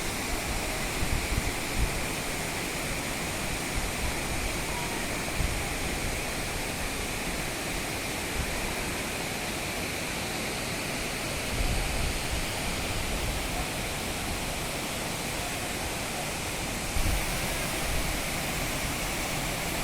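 Steady rushing of a waterfall, a continuous even roar of falling water, with a few brief low rumbles on top about a second in, around twelve seconds in and near seventeen seconds.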